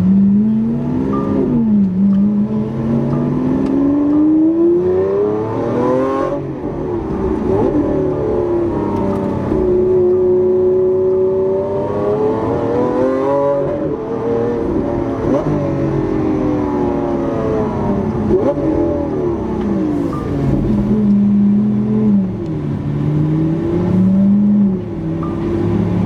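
Lamborghini Aventador's V12 through a Capristo exhaust, rising in pitch under acceleration with a sharp drop at an upshift about six seconds in. It climbs again and falls away slowly, then settles to a lower, steadier note with short blips of throttle in the last few seconds.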